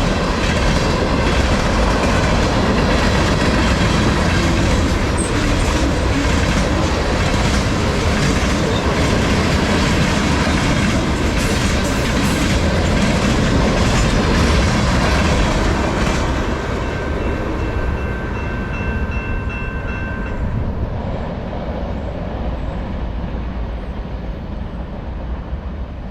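Train cars rolling past on the rails with a steady clickety-clack, the noise dropping away about 16 s in as the end of the train passes. A thin high wheel squeal sounds for a few seconds soon after.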